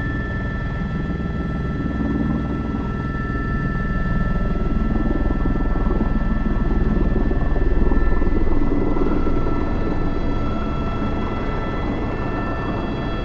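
Airbus H125 (AS350 B3) single-turbine helicopter in flight, heard from the cockpit: a steady rotor rumble with a thin high turbine whine. It grows louder from about four seconds in, then eases back after about nine seconds.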